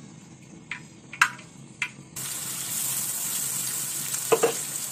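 A few sharp pops from mustard and fenugreek seeds spluttering in hot oil. About two seconds in, a sudden loud, steady sizzle begins as a coarse ground paste of onion, garlic and green chilli is tipped into the oil to fry.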